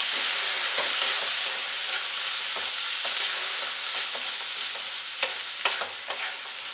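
Green chickpeas sizzling in mustard oil in a kadhai as they are stir-fried with a wooden spatula, a steady hiss with a few scrapes and taps of the spatula against the pan.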